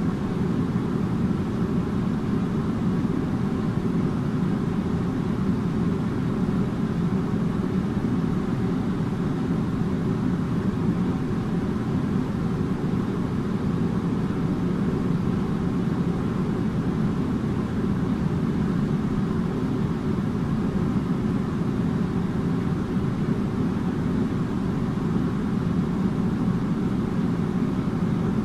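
Air conditioner running steadily: an even, low hum and rush of air that never changes.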